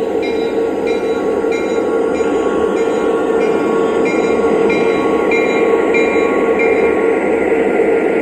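Lionel Legacy O-gauge model train's sound system playing steady locomotive rumble as the train pulls out, with a short bell-like tone repeating about twice a second that stops near the end.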